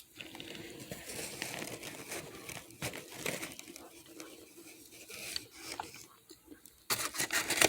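Brown paper bag crinkling and tearing as it is handled, then a quick run of sharp cracks near the end as hard, dry microwaved starch chunks are broken apart.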